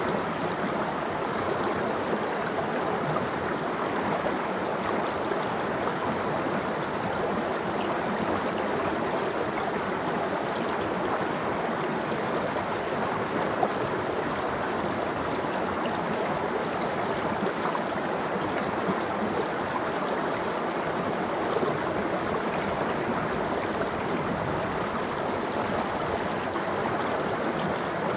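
Mountain stream flowing steadily, with water splashing and gurgling over rocks in an icy valley.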